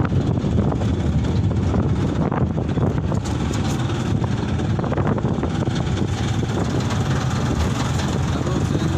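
Mitsubishi Fuso Canter light truck running on the road, its engine and road noise a steady, unbroken rumble.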